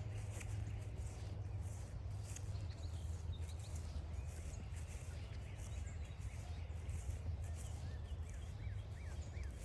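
Footsteps on a forest trail, about two steps a second, over a steady low rumble. Near the end a bird gives a quick run of about six short chirps.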